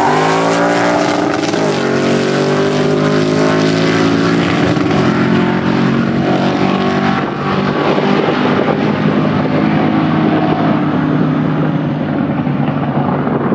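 Supercharged V8 of a pro street Plymouth Duster at full throttle on a drag run. Its pitch climbs through the gears, dropping at shifts about two and five seconds in, then runs on at high revs and grows more distant and rougher.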